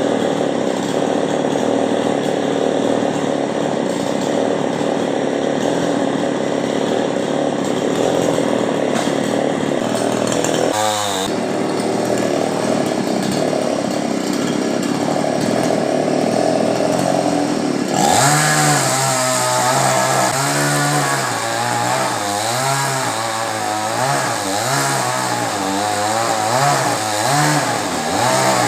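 Chainsaw running steadily while cutting coconut tree wood. From a little past the middle its engine pitch rises and falls over and over as the saw is revved and eased under load.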